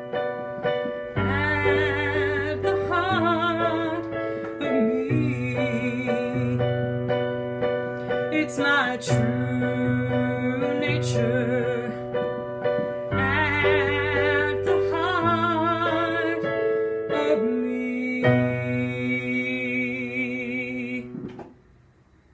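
Piano playing the closing bars of a song, sustained chords over a bass line, with a few wavering wordless sung notes. It dies away about a second before the end.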